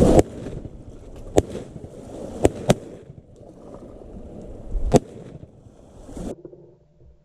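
Four shotgun shots over a low steady background rush: one about a second and a half in, two in quick succession about a second later, and a fourth near five seconds.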